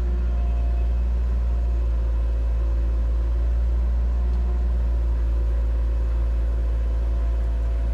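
Excavator's diesel engine running steadily, a constant deep hum with no change in pitch.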